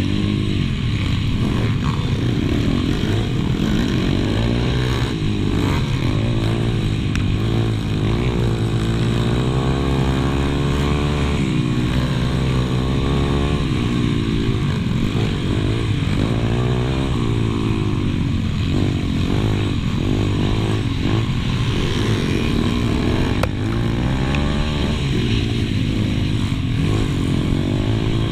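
Pit bike engine heard from on board while racing, its pitch rising and dropping again and again as the throttle is opened and shut through the laps.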